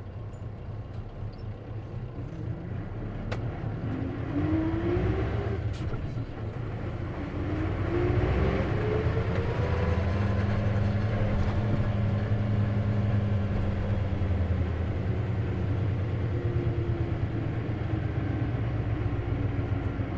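Isuzu KC-LV380N manual-transmission city bus heard from inside, accelerating with its engine note rising and a whine that climbs in pitch. The run is broken by a short drop in level about six seconds in, after which it pulls harder and runs steadily. This bus is noted for an unusual noise that may be a symptom of manual-transmission buses.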